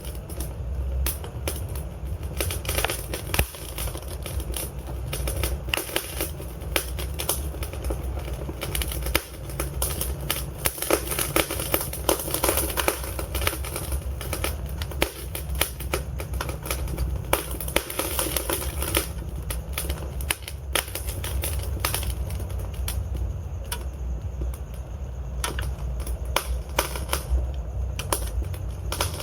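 Wood fire crackling and popping in a fireplace: dense, irregular sharp snaps over a steady low rumble of burning logs, busiest in the middle.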